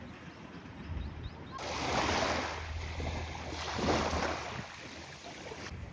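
Sea waves washing onto the shore, with two swells about two and four seconds in, over a low rumble of wind on the microphone.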